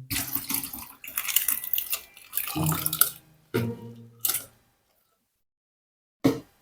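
Water running from a tap and splashing in a sink for about four and a half seconds, then cutting off; a short knock near the end.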